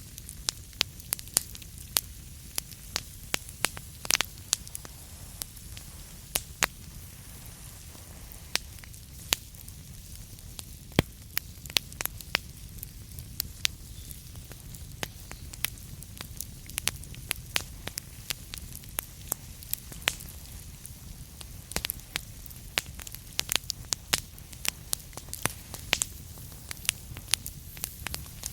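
Burning wood fire crackling, with frequent irregular sharp pops over a steady low rumble and soft hiss.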